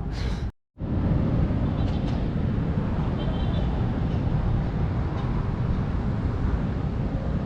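Steady rumble of vehicles and road noise, with no single engine standing out.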